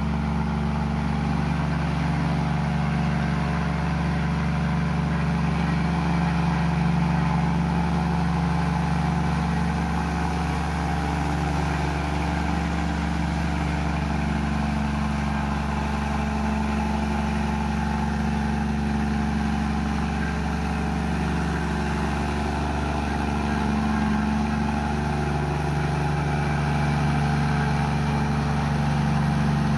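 Komatsu bulldozer's diesel engine running steadily as it pushes mud, its note wavering slightly up and down.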